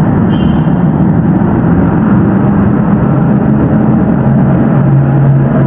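Daihatsu Ayla's 1.0-litre three-cylinder engine running hard as the car pulls away, heard from inside the cabin; its note rises and then drops back about four and a half seconds in.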